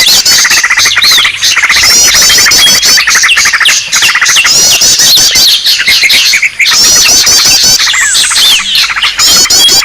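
A loud, dense chorus of many small birds chirping, trilling and squawking all at once, the noisy flock commotion used as a lure call to draw small birds to a trap. The same quick trill phrases recur every few seconds.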